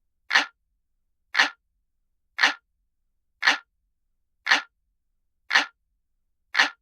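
Looped analog-clock ticking sound effect: a single tick about once a second, seven in all, with silence between.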